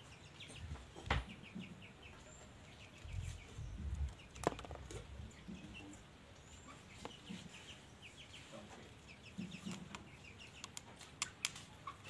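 Bird calls: several bursts of rapid, high chattering notes, with a few sharp clicks and a brief low thudding.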